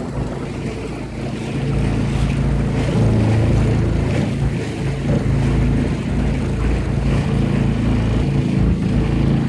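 Small motorboat's engine running with a steady low drone, with wind buffeting the microphone.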